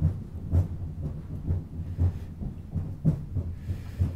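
Cabin running noise of a Strizh (Talgo 250) high-speed train in motion: a steady low rumble with dull thumps about twice a second from the wheels on the track.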